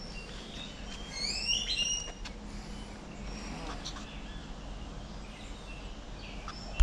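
Birds calling: a quick cluster of high whistled notes that sweep up and down about a second in, then scattered short chirps over a faint steady background, with one sharp click at the very end.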